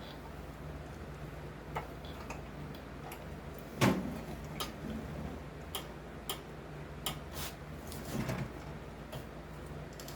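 Light metallic clicks and taps of hand tools and parts working on a small-engine carburetor, scattered and irregular, with one louder knock about four seconds in and a few more near the end. A steady low hum runs underneath.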